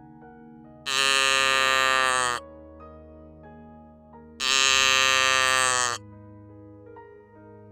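Cow mooing twice, two buzzy calls of about a second and a half each that drop slightly in pitch at the end, over soft piano music.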